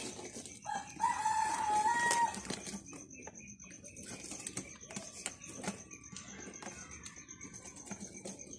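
A rooster crowing once, about a second in, a single held call lasting about a second and a half. Scattered clicks and rustles sound before and after it.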